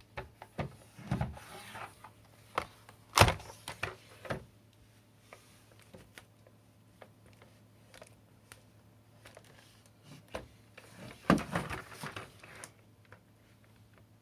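Scattered handling noises: hard clicks and knocks with brief rustles, one sharp knock about three seconds in and a cluster of knocks and rustling around eleven to twelve seconds. No motor is running.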